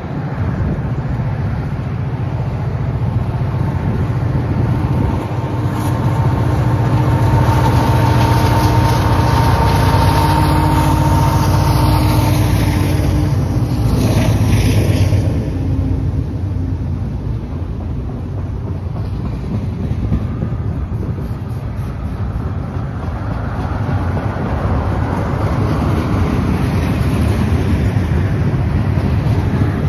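Freight train passing close by. The diesel locomotives rumble with a steady whine, loudest as they go by about halfway through. After them the covered hopper cars roll past with steady wheel and rail noise.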